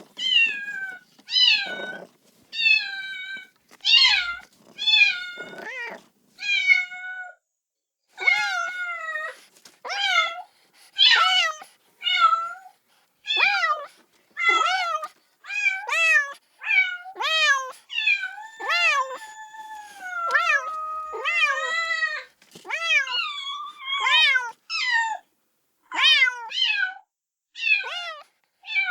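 A kitten meowing over and over in high-pitched cries, roughly one or two a second, with a short pause about a quarter of the way in and a few longer, drawn-out cries past the middle. These are a kitten's calls for its mother.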